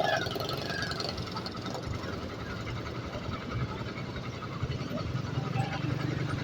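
An engine running steadily: a low drone with a faint, fast, even ticking above it.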